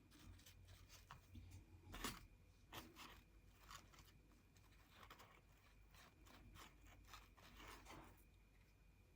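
Near silence with faint, scattered rustles and light taps of paper craft materials being handled, the loudest about two seconds in.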